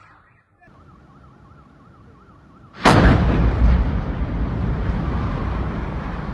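A fast warbling tone, then about three seconds in a sudden, very loud gas explosion, followed by a long low rumble that slowly fades.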